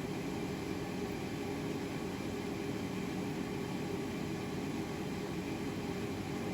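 A forge running, a steady low rushing noise with no hammer blows.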